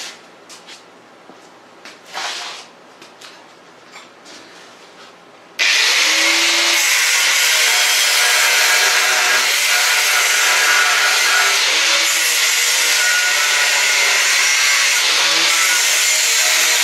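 A few light handling clicks, then, about five and a half seconds in, a grinder fitted with an abrasive cutoff wheel starts abruptly and cuts steadily through the steel table frame. Its pitch dips now and then under load.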